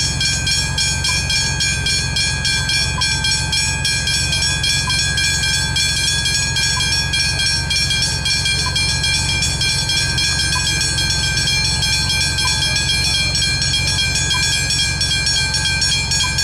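Railway level crossing warning bells ringing continuously in a rapid, even repeat, over a constant low rumble. A faint tick comes about every two seconds.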